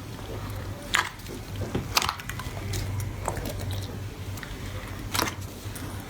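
Slime being squished and worked by hand, with sharp pops about a second in, two seconds in and near the end, and fainter crackles in between. A low steady hum runs underneath.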